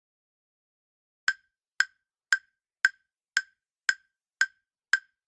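Quiz countdown-timer ticking sound effect: eight sharp, even ticks at about two a second, starting a little over a second in.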